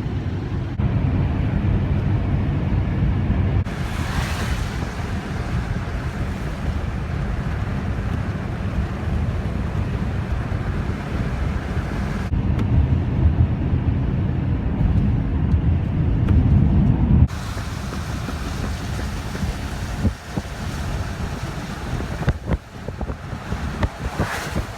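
Steady low road-and-engine rumble of a cargo van driving, with wind noise over it. The sound changes abruptly a few times.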